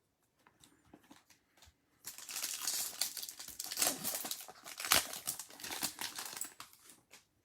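Plastic wrapper of a Topps Chrome trading-card pack crinkling and tearing as it is opened by hand. A few faint clicks come first, then about two seconds in a run of busy crinkling starts and lasts some five seconds.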